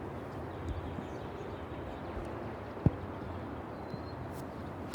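A golf club striking the ball on a short approach shot from light rough: one sharp crack near the end. There is a duller single knock about three seconds in, over a steady low rumble of wind on the microphone.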